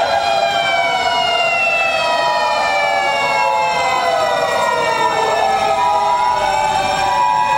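Sirens of Japanese fire engines on an emergency run, several wailing at once with their pitches sliding slowly and overlapping, one starting to fall more steeply near the end.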